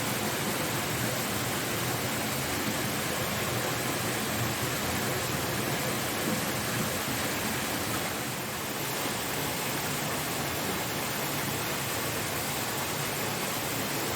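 Waterfall rushing: a steady, even wash of falling water, dipping slightly about two thirds of the way through.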